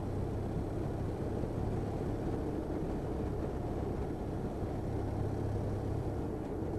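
Motorcycle running at a steady cruise, a constant low engine hum under tyre and wind noise from riding over a rutted road surface.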